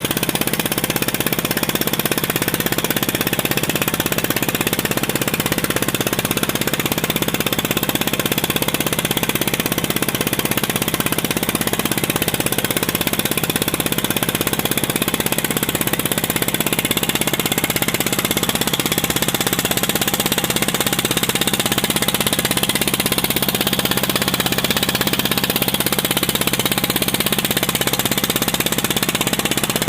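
An engine running steadily with a fast knocking beat, unchanging throughout.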